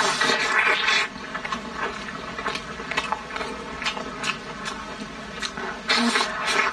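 A person biting into and chewing soft braised pork belly: many quick mouth clicks and smacks, with louder bites at the start and again near the end.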